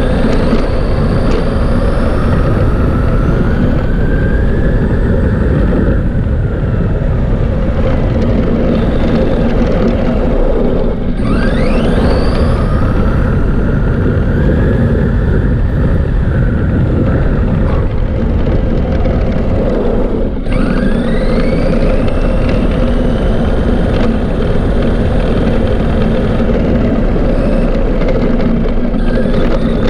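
Arrma Granite 3S RC monster truck driven at full speed, heard from a camera mounted on it: the brushless electric motor's whine climbs in pitch as it accelerates, three runs in all, dropping off abruptly about a third and two thirds of the way through, over a steady loud rushing noise.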